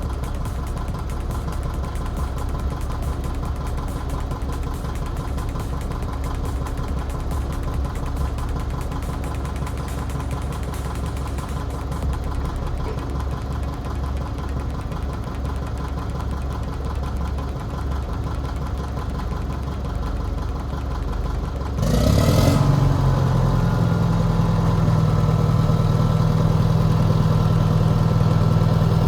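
Track loader engine running steadily, then throttled up about three-quarters of the way through: a short burst of noise, then a louder, higher-pitched steady run.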